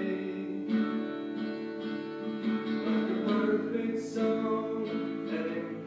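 Acoustic guitar strumming chords of a song played by a small band.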